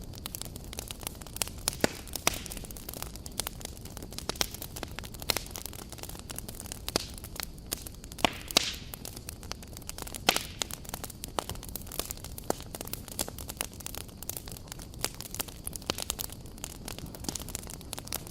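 Campfire crackling: frequent sharp pops and snaps of burning wood over a steady low rush of noise, a handful of pops clearly louder than the rest.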